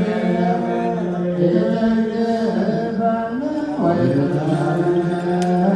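Orthodox Tewahedo liturgical chant: a voice singing long held notes that bend slowly in pitch, with a dip and a rising glide about four seconds in.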